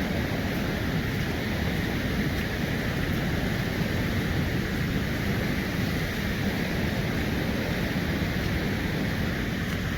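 Steady rushing of river water at the mill, a continuous even roar with no breaks.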